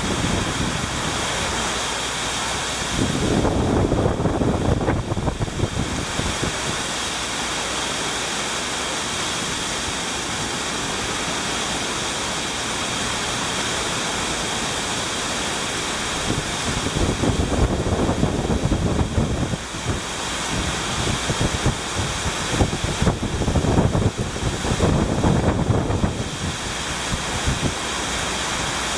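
Heavy hurricane rain pouring down as a steady rush, with wind gusting hard on the microphone several times.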